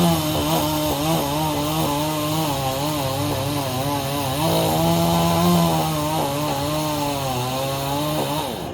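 Chainsaw running at full throttle while cutting through the tree, its engine note wavering under load and rising briefly about halfway through. Near the end the throttle is released and the revs fall away.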